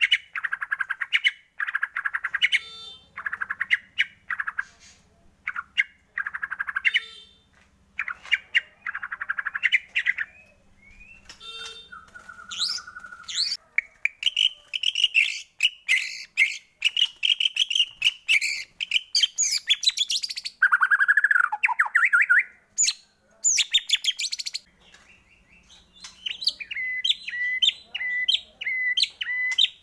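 White-rumped shama (murai batu) singing a fast, varied song. It moves from rapid chattering bursts to higher whistles and trills, and near the end a note is repeated about four times a second.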